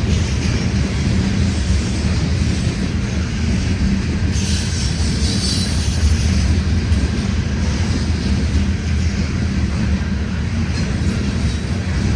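CN freight train rolling past: a steady, loud rumble of wheels on rail, with a brief high-pitched noise about four seconds in that lasts around two seconds.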